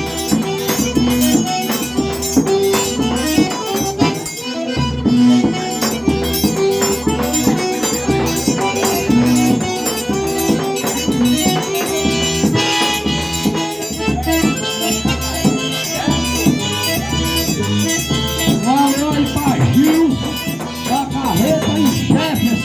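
Instrumental forró played live on an eight-bass button accordion (oito baixos), with a shaker and a steady bass-drum beat keeping the rhythm.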